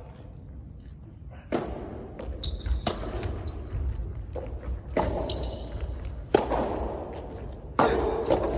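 Soft tennis rally: sharp hits on the rubber ball every one to two seconds, each trailing off in echo, with high short squeaks in between.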